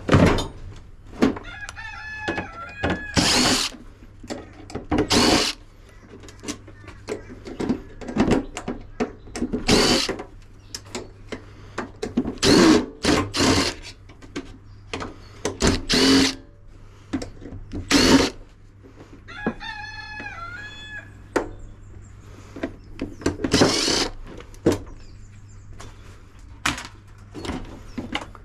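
Short bursts of a power drill or driver and clanks of metal as a dishwasher door is taken apart for scrap. A rooster crows twice, about two seconds in and again about twenty seconds in.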